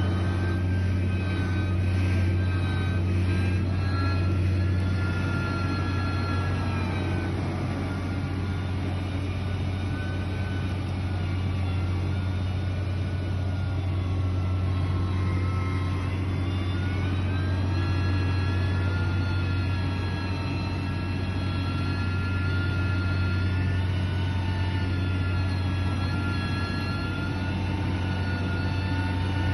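Heavy construction machine's diesel engine running steadily, its pitch sagging about halfway through and climbing again soon after as the engine speed changes.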